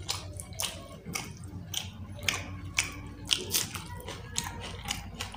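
Close-up wet chewing and lip smacking of chicken skin curry with rice, a quick irregular run of short clicks and smacks over a low steady hum. Near the end, fingers squish rice into the curry.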